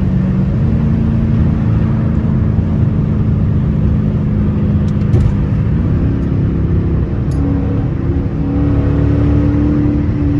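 Straight-piped Dodge Charger's exhaust droning steadily while driving, heard from inside the cabin. Its note steps up in pitch about half a second in, and again around six seconds, as the car picks up speed.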